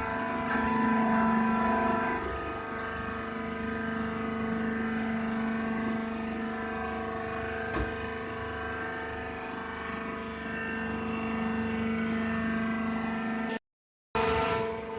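Hydraulic baler's motor and pump running with a steady hum, with a single click about eight seconds in. The sound cuts out for about half a second near the end.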